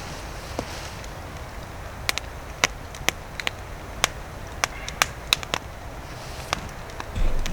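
Wood campfire crackling, with sharp irregular pops and snaps over a steady low rumble that gets louder near the end.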